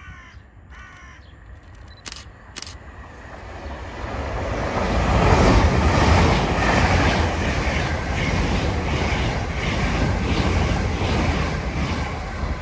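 LNER Class 800 Azuma train running through the station: a rumble and rush builds over a few seconds as it nears, then stays loud as the coaches go past, with a regular clatter of wheels about every two-thirds of a second.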